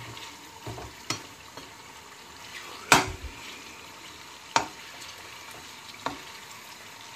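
Chicken pieces sizzling in oil in a nonstick kadhai as they are stirred with a slotted steel spoon. The spoon knocks against the pan four times, the loudest about three seconds in.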